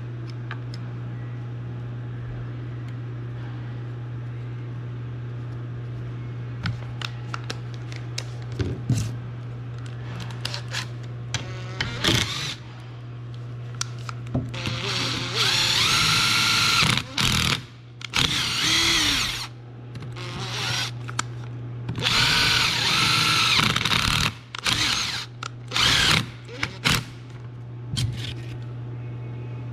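Power drill running in several bursts of one to three seconds from about halfway in, its whir wavering in pitch, with scattered tool clicks and clinks before it.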